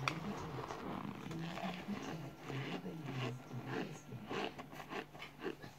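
A person chewing a mouthful of dry cornstarch close up, with a quick, uneven run of short mouth clicks and smacks.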